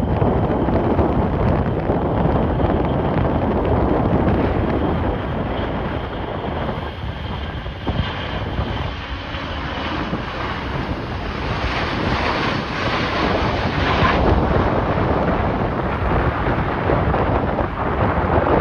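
Strong gusty wind buffeting the microphone with a heavy rumble, and a jet airliner's engine whine building underneath it midway before fading.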